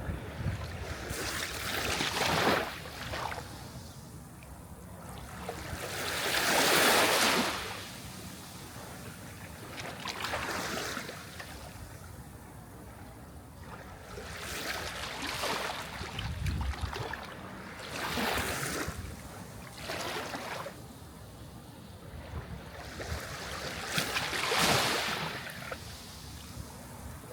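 Sea waves breaking and washing ashore, a surge of surf swelling and fading every few seconds, the biggest about seven seconds in and again near the end.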